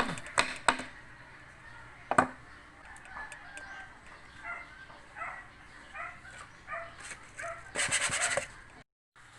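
Sharp knocks of wooden rack pieces being set and pressed together during glue-up, with chickens clucking in the background. A brief, loud, rapid rattle comes near the end.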